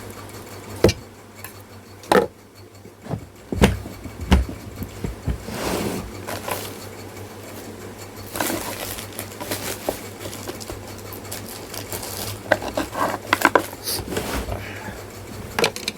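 Scattered metal clinks and knocks with some scraping: ceiling fan housing parts and hand tools being handled while the fan is taken apart.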